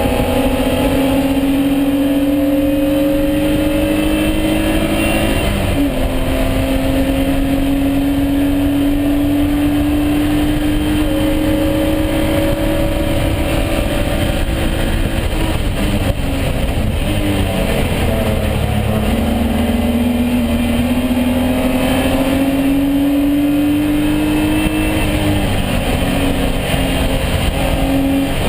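BMW E36 M3 race car's straight-six engine under hard acceleration, its pitch climbing through the gears with a quick upshift drop about five seconds in. A long pull follows, then the pitch falls away as it slows for a corner, and it climbs again to another upshift near the end.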